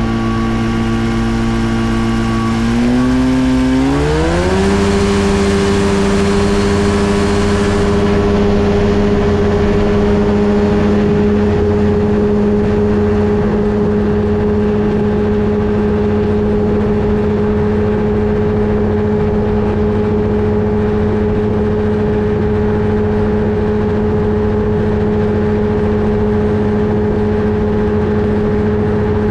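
Flightstar 2 ultralight's two-stroke engine, which the owner believes is a Rotax 503, recorded from the airframe. The throttle opens about three seconds in and the pitch rises smoothly, then holds steady at high power.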